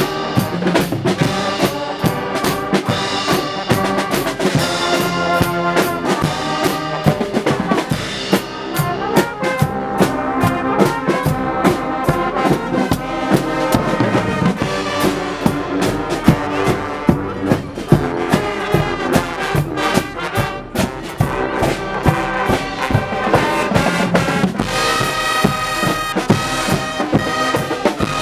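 Brass-band music with trumpets and trombones playing over a steady drum beat.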